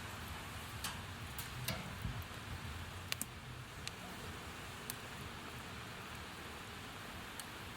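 Steady hiss with scattered sharp clicks and ticks, irregular and most frequent in the first half.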